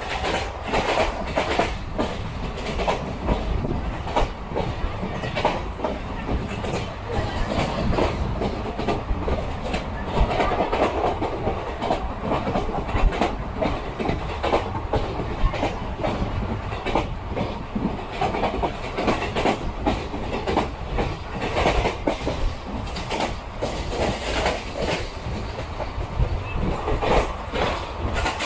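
Passenger express coach running at speed over the track, heard from a window seat: a steady rumble with wheels clattering on the rails throughout.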